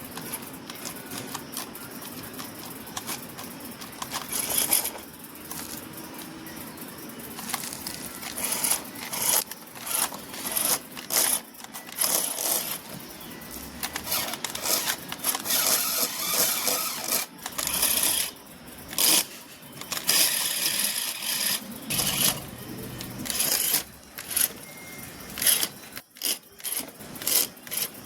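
Small RC vehicles driving over rough dirt: irregular clattering and crunching of plastic parts and wheels, growing busier after the first several seconds.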